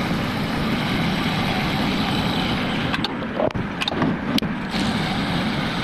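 CNC coil winding machine running steadily, with a few sharp clicks between about three and four and a half seconds in.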